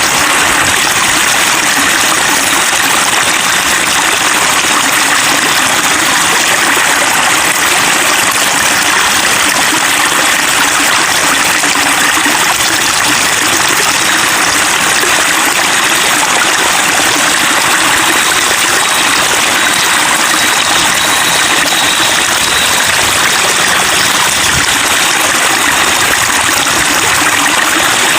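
Flowing water babbling steadily, an even rushing splash with no breaks.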